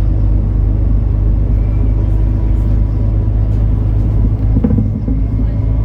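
MAN Lion's City NL293 city bus running, a steady low engine and road rumble, with a brief knock or rattle about four and a half seconds in.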